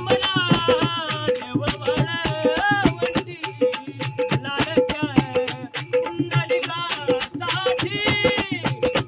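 Marathi devotional bhajan music: a melody sung in long gliding phrases over dense, fast hand percussion with rattling accents, and a steady struck beat about twice a second.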